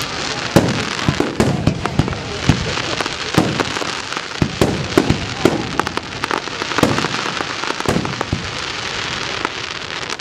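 Fireworks display: a rapid, uneven run of bangs, often several a second, over a steady crackle.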